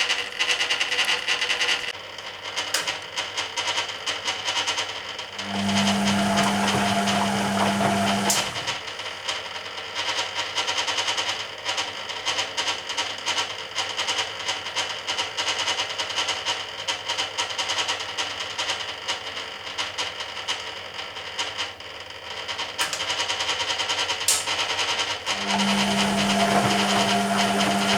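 Hoover Keymatic A3112 washing machine in its main wash: the drum motor hums in two spells of about three seconds, about six seconds in and again near the end, with the washload and water sloshing and clattering in the stainless steel drum between.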